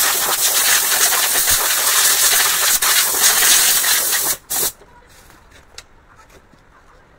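A loud, even hiss, like a jet of steam or pressurised air escaping. It cuts off after about four seconds, returns for a short burst, then stops.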